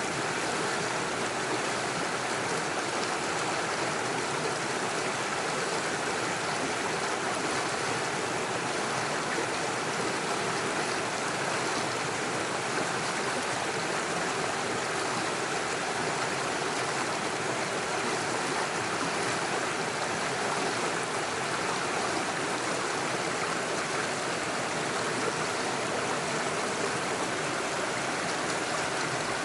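Small forest stream running steadily over stones and little waterfalls, an even, unbroken rush of water.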